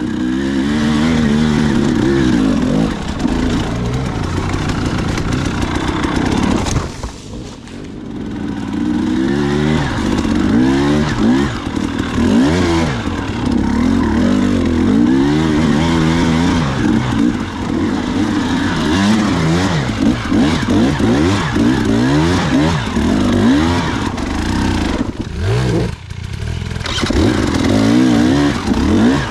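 Dirt bike engine being ridden on a trail, the throttle opened and closed over and over so the revs keep rising and falling. The engine sound drops away briefly twice, where the rider comes off the throttle.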